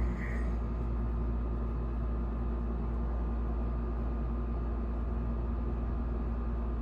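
Steady hum and hiss of a running room appliance, most like a fan or cooling unit, with a strong low rumble and unchanging tones.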